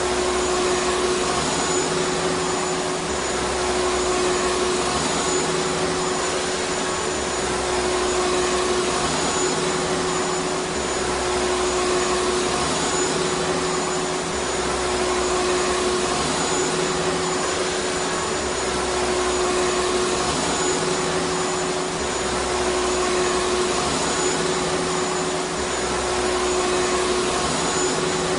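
Vacuum cleaner running continuously: a dense rush of air with a steady motor whine, and a low rumble that swells and eases every two to three seconds.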